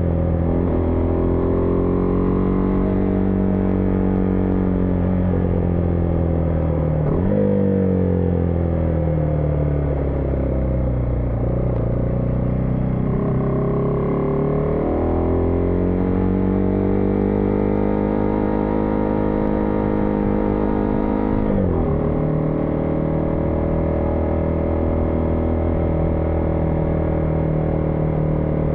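Husqvarna Vitpilen 401's single-cylinder engine under way. The engine note falls as the bike slows, jumps about seven seconds in, then climbs again as it accelerates. Its revs drop suddenly about two-thirds through with an upshift.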